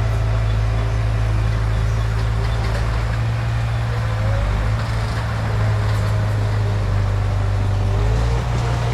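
Komatsu D31P bulldozer's diesel engine running steadily under load, its pitch dipping slightly about halfway through and rising again near the end.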